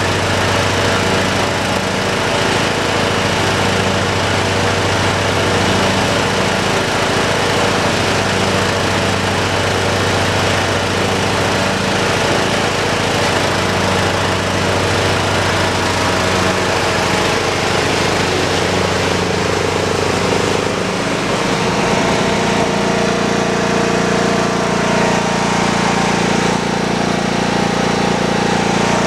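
John Deere lawn tractor's engine running steadily while mowing. About two-thirds of the way through, its note changes, then holds steady again.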